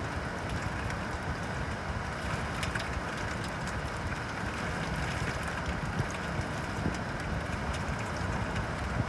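Steady rain falling at night: an even hiss with many small sharp drop ticks, over a constant low rumble.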